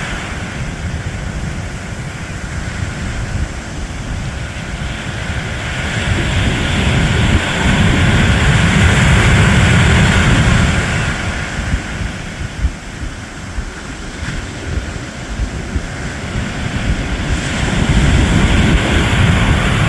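Ocean surf washing steadily under wind rumbling on the microphone, swelling louder twice.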